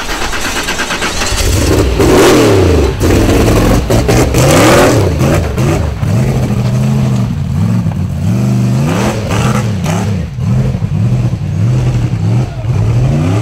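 Rock bouncer's high-horsepower engine revving hard. There is a loud stretch at full throttle early on, then from about six seconds in the pitch rises and falls in repeated quick blips, roughly one a second.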